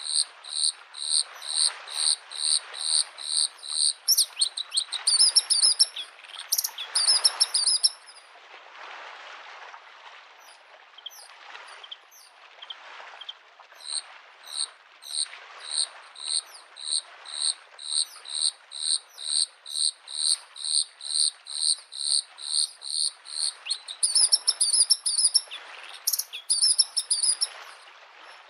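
Bluethroat singing: long runs of one repeated high note, about three a second, broken twice by a fast, varied warbling phrase. Underneath, the steady wash of small waves on a lake shore.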